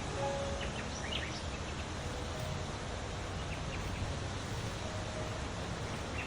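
Steady outdoor rushing noise with a few short bird chirps about a second in and again a few seconds later.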